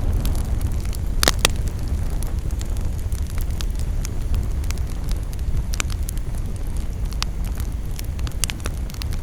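Campfire crackling, with irregular sharp pops over a steady low rumble. Two loud pops come close together about a second in.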